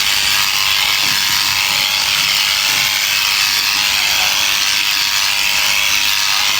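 Electric sheep shears running steadily with a continuous rattling buzz.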